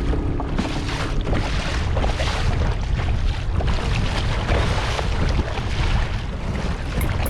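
Strong wind buffeting the microphone, with choppy sea water splashing against a kayak's hull.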